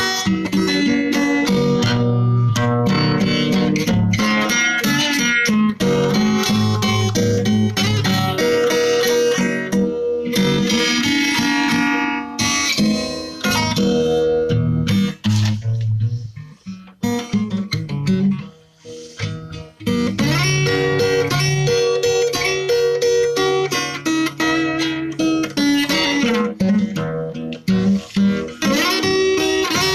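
Music led by plucked guitar, with a sparser, quieter stretch in the middle before the full playing returns.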